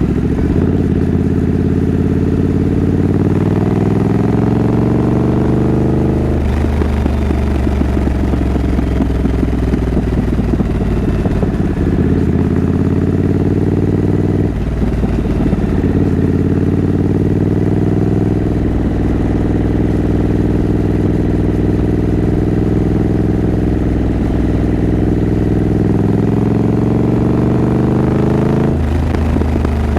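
Triumph Scrambler 900's parallel-twin engine pulling the bike along, its pitch climbing through each gear and dropping sharply with upshifts about 6 seconds in, halfway through, and near the end.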